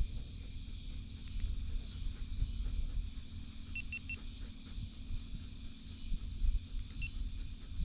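Steady chorus of field insects, a dense high buzz, with short high chirps that repeat in pairs and, now and then, in quick threes. An uneven low rumble lies underneath.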